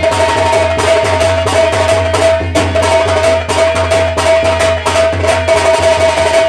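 Instrumental music interlude: fast hand-drum strokes over one long held melody note and a steady low hum.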